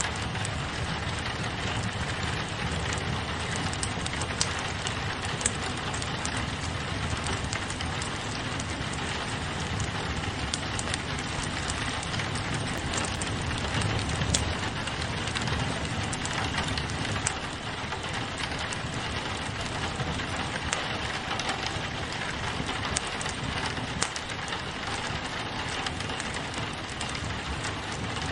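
Steady rain on a window, mixed with a wood fire crackling, with scattered sharp pops from the fire over an even hiss and a low rumble.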